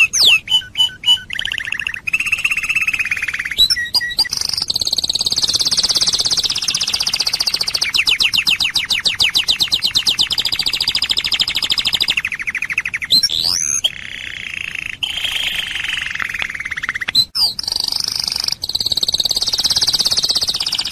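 A songbird singing long runs of fast, high trills and warbles, with a couple of brief breaks.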